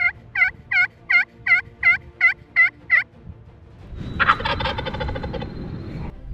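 Turkey yelping: a quick, even series of about nine loud notes lasting about three seconds. About a second later a wild turkey gobble answers, a rattling burst of about two seconds.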